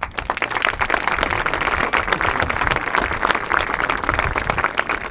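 Crowd applauding: many hands clapping at once, swelling within the first second from a few scattered claps to a dense, steady ovation.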